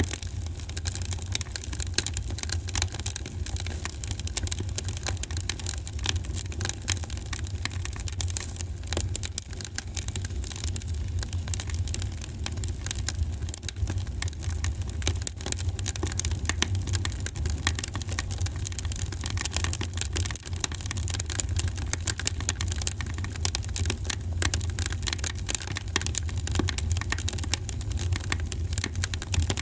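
Wood fire burning in a fireplace: steady dense crackling and popping of burning logs over a low steady rumble.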